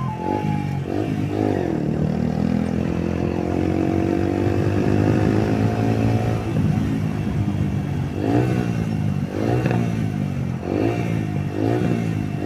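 Yamaha YBR 125 motorcycle's single-cylinder four-stroke engine running hard at high speed, its pitch climbing slowly for several seconds. In the second half it gives a series of short rising revs.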